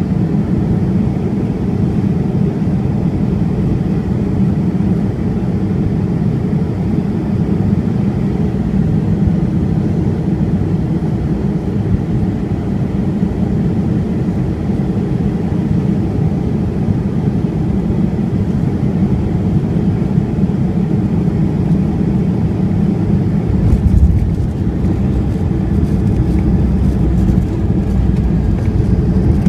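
Steady low engine and airflow noise inside the cabin of a Boeing 757-200 landing. About 24 seconds in there is a jolt, and the low noise changes as rattling sets in, consistent with touchdown and the rollout beginning.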